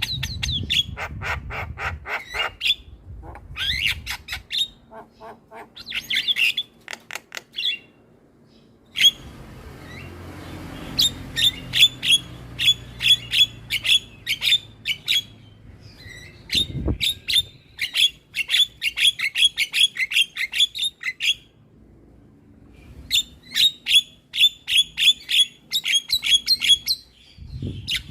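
Javan myna calling in rapid runs of harsh, clicking chatter, several bursts separated by short pauses.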